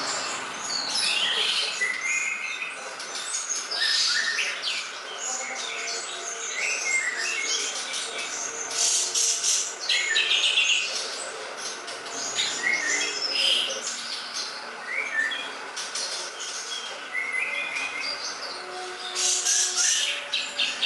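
Cucak jenggot (grey-cheeked bulbul) song played as a masteran training recording: a rapid, varied run of chirps, trills and short whistled phrases, with short pauses.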